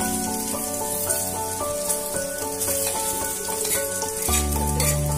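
Sliced potatoes sizzling as they fry in hot oil in a steel kadai. Background music with held notes plays along, and a deep bass note enters about four seconds in.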